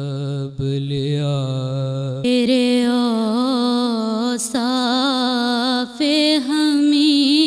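A solo voice chanting in long, held notes whose pitch wavers and turns in ornaments. It comes in strongly about two seconds in, where a steady low tone underneath stops.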